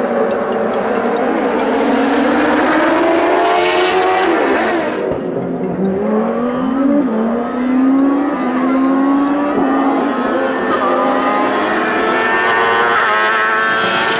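Race car engine under hard acceleration on a hillclimb course. The pitch rises, drops sharply about five seconds in, then climbs again through the gears in steps and rises steeply near the end.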